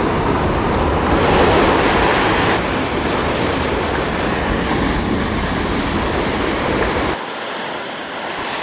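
Ocean surf with wind buffeting the microphone, a steady rushing noise; the deep rumble drops away abruptly about seven seconds in.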